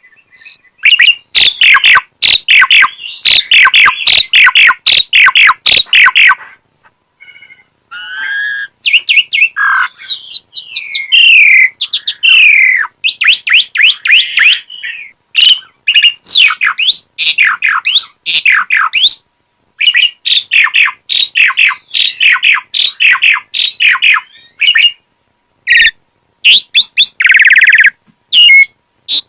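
Asian pied starling singing at full intensity: fast runs of sharp chattering notes alternate with whistled rising and falling glides and a buzzy phrase near the end, broken by a few short pauses. This is the bird's loud 'gacor' song, in which it pours out its repertoire of copied calls.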